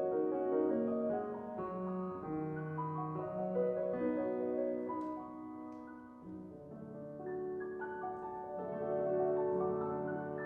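Solo classical piano playing: legato melody over held chords and bass notes, easing to a softer passage around the middle before swelling again. Two faint clicks come about five seconds in.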